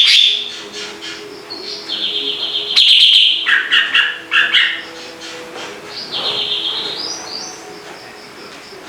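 Javan cucak ranting songbird singing in bursts of loud, rapid chattering trills, with a rising whistled phrase a few seconds later. A faint steady low hum runs underneath.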